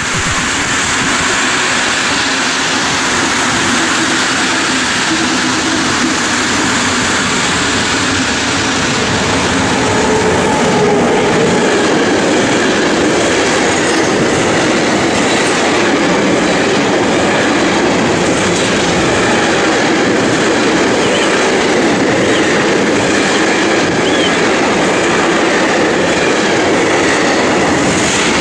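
Container freight train hauled by an ES64F4 (class 189) electric locomotive passing at speed: a loud, steady rumble and rush of the wagons' wheels on the rails, growing louder over the first ten seconds or so as the train comes up alongside, then holding steady as the container wagons roll by.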